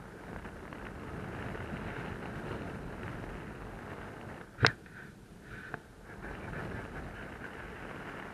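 Steady rush of wind over the microphone during a paraglider flight. A single sharp knock comes about four and a half seconds in, and a smaller click about a second later.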